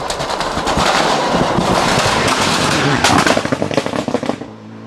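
Cars speeding past close by: a loud rush of engine noise with rapid crackling pops, dying away about four and a half seconds in.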